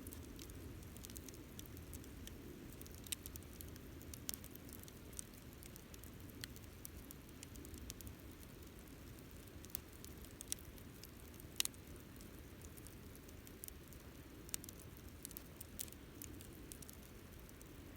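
Wood campfire burning quietly: a steady low sound of flames with scattered sharp crackles and pops, one louder pop about two-thirds of the way through.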